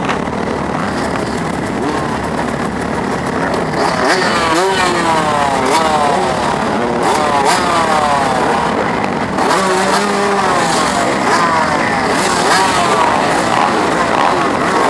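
250cc four-stroke motocross bike engine revving hard, its pitch climbing and dropping again and again as the rider goes up through the gears and rolls off. Other bikes' engines are heard around it.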